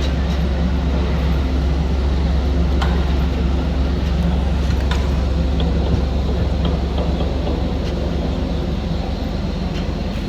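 An engine running steadily with a low, even rumble, with a few faint clicks over it.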